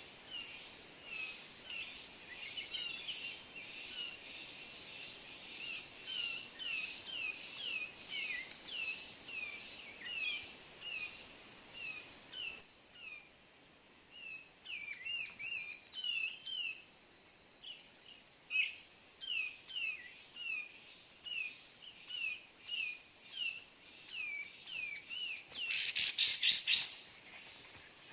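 Kapas tembak bird calls: a steady string of short, down-slurred chirps, about two a second, growing louder in bursts in the second half. A brief rattling flurry comes near the end and is the loudest moment.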